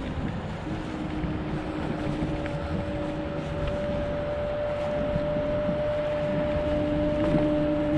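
Kaabo Wolf GT Pro electric scooter riding along: a steady motor whine over rushing wind and tyre noise. A lower hum comes and goes, and the whole sound grows a little louder toward the end.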